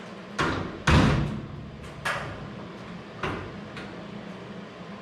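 A truck door and its latch assembly being worked by hand: a series of about five sharp metallic clunks, the loudest about a second in, as the latch is checked for alignment.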